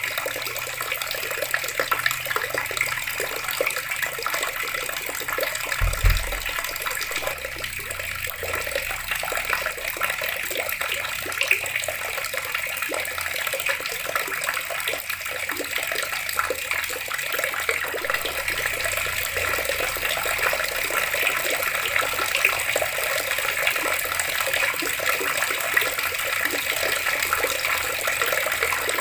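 Water running steadily from a tap and splashing, with one brief low thump about six seconds in.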